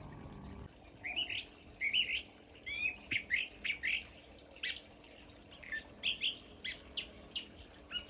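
California thrasher singing: a varied run of short melodious phrases with brief gaps between them, some of them quick strings of repeated notes. The song begins about a second in.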